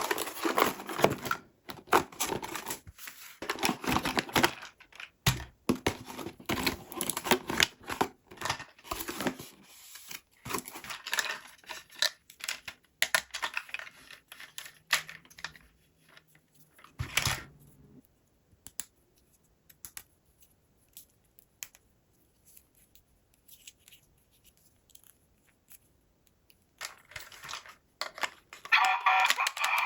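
Toy packaging being opened by hand: paper and plastic tearing and crinkling with clicks and scrapes, busy for about the first eighteen seconds, then only sparse faint ticks, with a brief burst of handling near the end.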